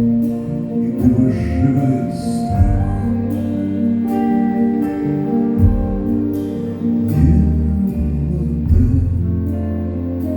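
Live band music: a bass line under held chords, with a steady beat of cymbal strokes.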